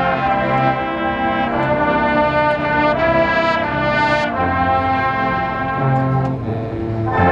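Marching band brass playing loud, sustained chords, with a low bass line beneath. Near the end the sound thins briefly before the full band comes back in together.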